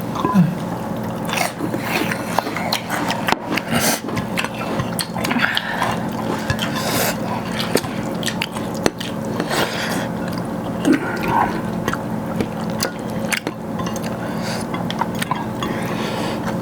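Chewing and eating sounds of a mouthful of rice and chicken gravy, with many small wet clicks and smacks.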